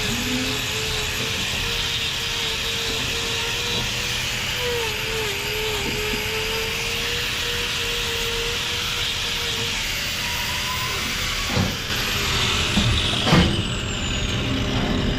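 Hand-held angle grinder with a hoof-trimming disc running and cutting cow hoof horn, its whine wavering under load. About eleven and a half seconds in it is switched off and winds down, with two sharp knocks.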